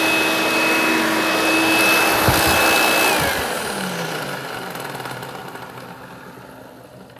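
Hoover Dial-A-Matic upright vacuum cleaner running with a steady high whine, then switched off about three seconds in and winding down, its pitch falling as it fades. A few low thumps come while it runs, which the owner says are just how the brush is, nothing to do with the motor.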